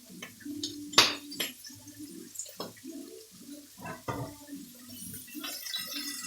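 Kitchen clatter of utensils and cookware: a run of sharp knocks and clinks, the loudest about a second in, as cooked noodles are handled in the pan.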